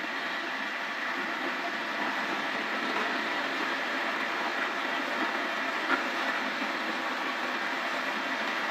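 A woodworking machine running steadily, a constant noise that does not change.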